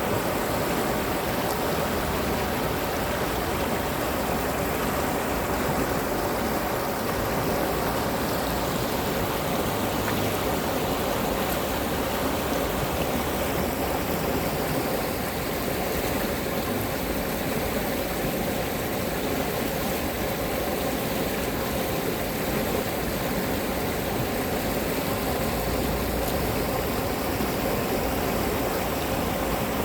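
Urban stream flowing after rain: a steady, even rush of running water.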